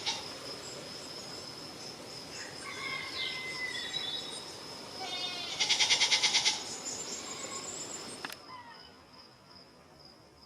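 Countryside ambience: birds calling, with a loud fast trill a little past halfway, over an insect's steady high-pitched buzz. The background noise drops away abruptly about eight seconds in.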